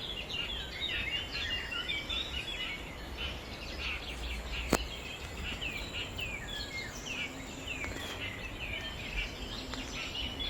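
Birds chirping in a busy, continuous chorus of short, quick high notes, over a low rumble, with a single sharp click about halfway through.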